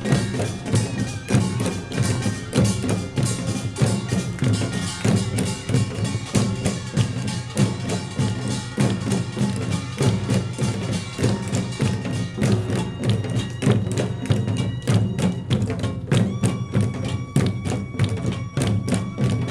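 Korean pungmul percussion ensemble playing Jeolla Jwado style: gongs, hourglass drums and barrel drums struck in a dense, fast rhythm. Ringing metal tones come through more clearly near the end.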